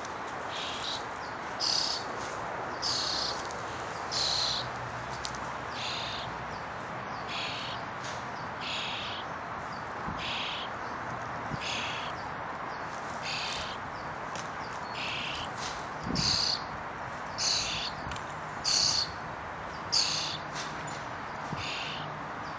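A baby bird chirping over and over, short high calls about once a second.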